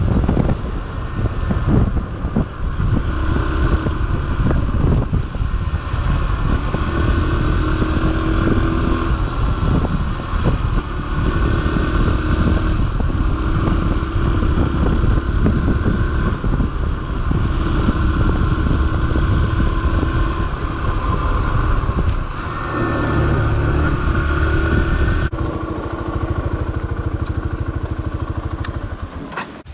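Yamaha XTZ125's single-cylinder four-stroke engine running steadily as the motorcycle is ridden, with a heavy low rumble. The engine note changes a few seconds before the end, then fades and cuts off.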